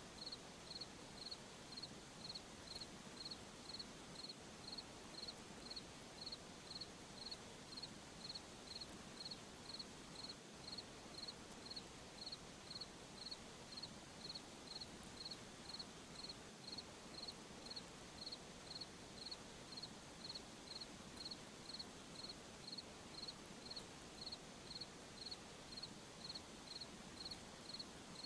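Cricket chirping faintly in a steady, even rhythm, about one and a half high chirps a second, over a low background hiss.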